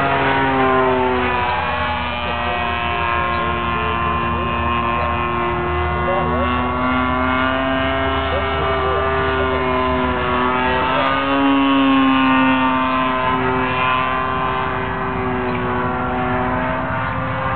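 DLE-30 single-cylinder two-stroke gas engine of an RC airplane, swinging an 18x8 wooden propeller, running steadily in flight. Its pitch falls over the first couple of seconds, rises to its loudest around ten to twelve seconds in, then eases down again.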